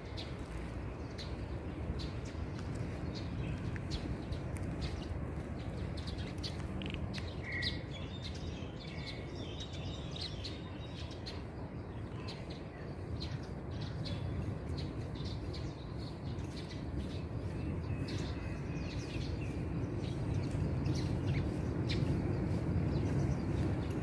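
Short, scattered bird chirps over a steady low outdoor rumble, with faint clicks; the rumble grows a little louder near the end.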